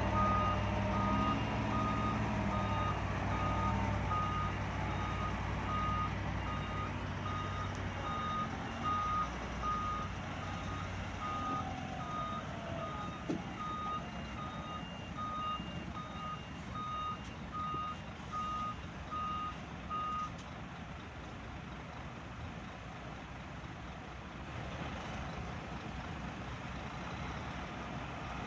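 Truck reversing alarm sounding steady, evenly spaced beeps over a heavy diesel engine as the loaded Scania P460 XT dump truck backs up. The engine is loudest for the first several seconds and then fades. The beeping stops about two-thirds of the way through.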